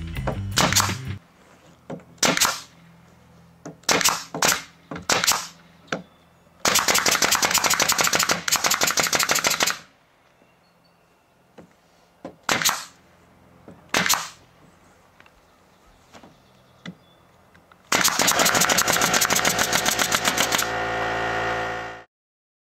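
Prototype automatic nail gun driving nails: single shots a second or more apart, then two rapid strings of nails fired in quick succession, each lasting about three seconds.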